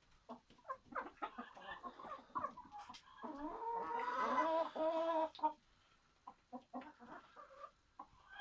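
Chickens clucking, then one long pitched call of about two seconds from a rooster crowing, the loudest sound here. Scattered short clucks follow.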